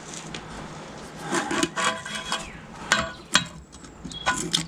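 Metal parts of a tractor's brake linkage clinking, scraping and knocking as a brake return spring is worked into place, several taps leaving a short metallic ring, busiest around the middle and again near the end.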